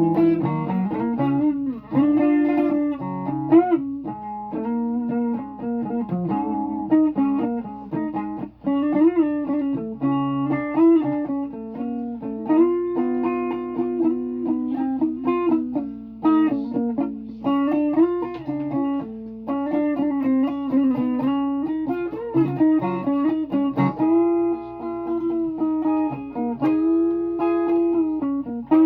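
Guitar played solo: a continuous melodic line of plucked notes, some held with vibrato and pitch bends.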